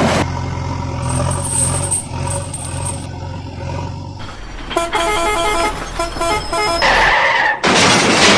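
Vehicle sound effects: an engine idling steadily, then a short tune of horn-like notes about five seconds in, followed by a loud hiss near the end.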